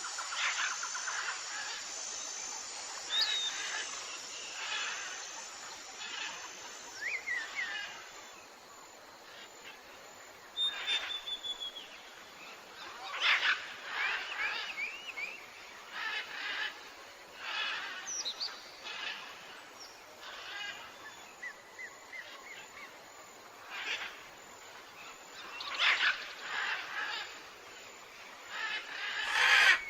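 Tropical forest ambience with several birds calling: repeated short chirps and thin whistles, some falling in pitch. A steady high hiss sits under the calls and fades out about a third of the way in.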